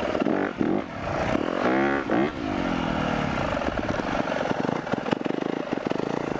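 Four-stroke motocross bike revved hard in first gear to lift a wheelie. The engine pitch climbs quickly about two seconds in, then drops as the throttle closes, and the bike runs on at a steady pace.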